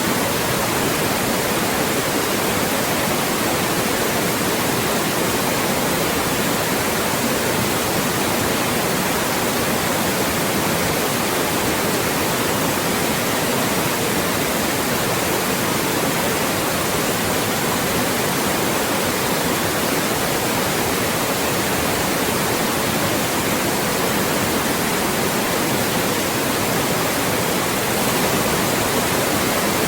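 Loud, steady white noise: an even, unbroken hiss across the whole range from low to very high, played as a speech blocker to mask voices.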